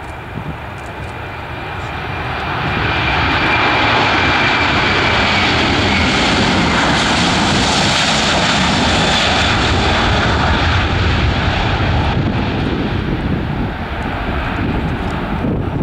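Airbus A330-200 airliner's twin General Electric CF6 turbofans at takeoff thrust, growing louder over the first few seconds with a high steady whine, then a loud, steady jet noise with hiss as the plane passes, easing off slightly near the end.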